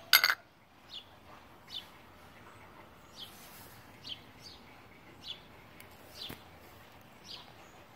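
A sharp clink right at the start as the metal jar lid is set down, then a bird calling nearby with short, high, falling chirps, about one a second.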